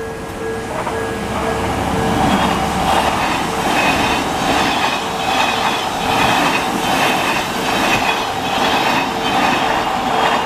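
An Odakyu Odawara Line train runs through a level crossing, its wheels clattering in an even rhythm over the rail joints. Under it the crossing's electronic warning bell dings steadily in the Odakyu-style tone. The train noise builds about a second in and ends near the close.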